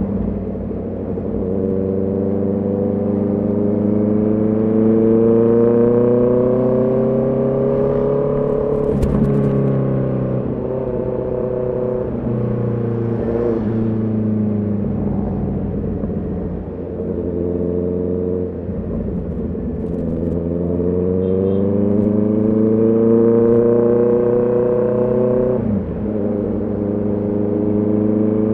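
Honda CB650R's inline-four engine pulling under throttle while riding. Its pitch climbs steadily twice and falls away sharply each time, first about a third of the way in and again near the end.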